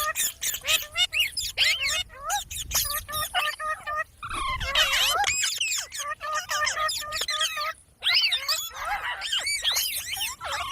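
Pet parrot calling: a quick, continuous run of high chirps, squeals and gliding whistles, with a brief pause about three quarters of the way through.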